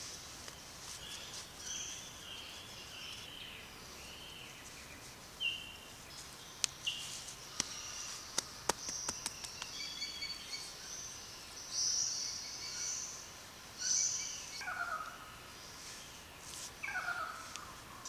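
Wild birds calling: a run of short chirps and whistles, with two louder calls that glide downward near the end. A few faint sharp clicks come in the middle.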